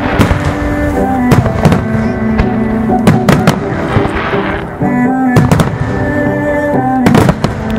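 Aerial firework shells bursting in rapid clusters of sharp bangs and cracks during a starmine barrage. Music plays over loudspeakers the whole time.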